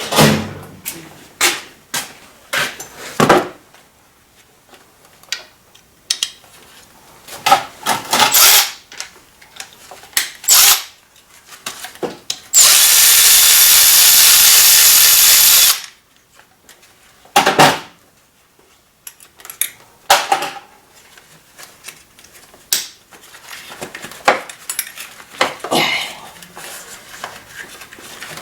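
A hand-held shop tool runs loudly and steadily for about three seconds midway through, while an ignition coil and spark plug are being removed from the engine. Scattered clicks and knocks of tools and parts being handled come before and after it.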